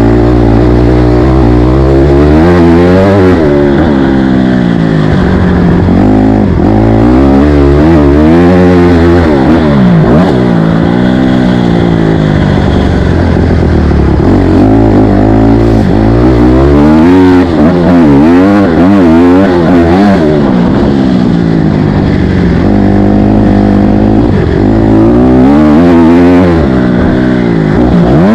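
A dirt bike engine running loud on a motocross track, its pitch climbing and dropping over and over as it is revved hard and backed off.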